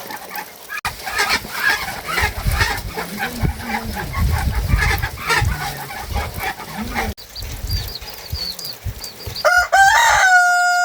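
Chickens clucking, then a rooster crows about three-quarters of the way in, one long loud call held on a steady pitch.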